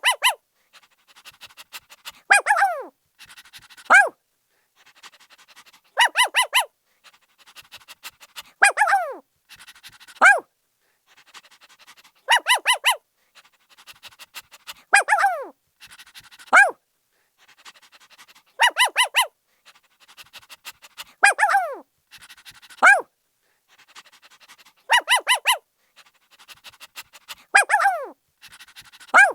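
Puppy barking in the same pattern about every six seconds: a quick run of yaps, a yelp that falls in pitch, then a single sharp bark, with softer short sounds between the groups. The exact repetition suggests one short recording played as a loop.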